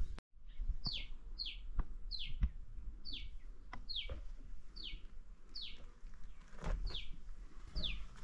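A bird calling over and over: a high note sliding quickly downward, repeated about every two-thirds of a second, about ten times. Soft footsteps on a stone-paved path tap underneath.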